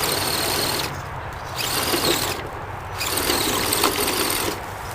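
Axial SCX10 RC crawler's electric motor and gears whining under throttle, in bursts with short pauses between them.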